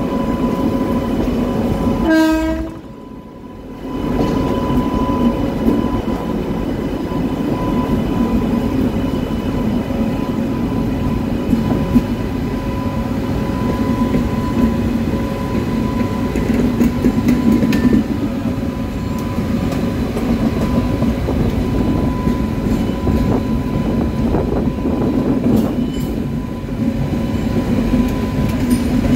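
Passenger train running on the track, a steady rumble with some clickety-clack, with one short train horn blast about two seconds in.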